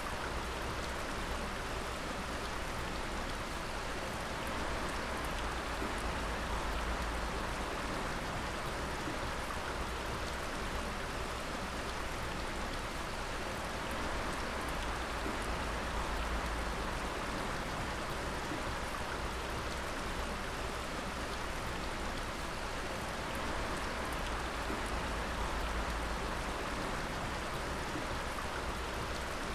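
Water dripping steadily, many drops falling at once to make a continuous, even patter, with a low rumble underneath.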